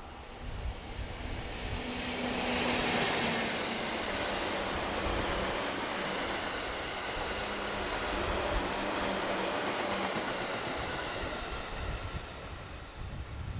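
EF64 electric locomotive hauling a train of 205 series electric cars past at speed, a steady rumble and rush of wheels on rail that swells about two seconds in and eases near the end. A low hum drops in pitch as the locomotive goes by.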